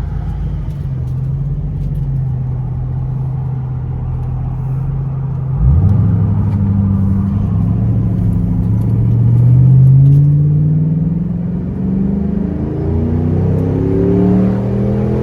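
2006 Ford Mustang with a Roush Extreme axle-back exhaust, heard from inside the car during an acceleration pull. The engine runs steadily at first; about six seconds in, the throttle opens and the exhaust note climbs in pitch. It drops at a gear change about ten seconds in, then climbs again.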